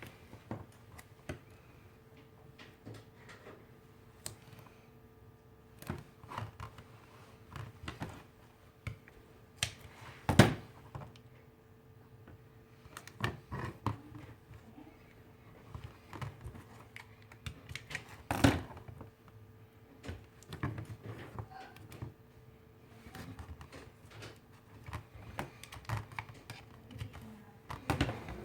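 Scattered light clicks and taps of small objects being handled on a workbench, with two louder knocks about ten and eighteen seconds in, over a faint steady hum.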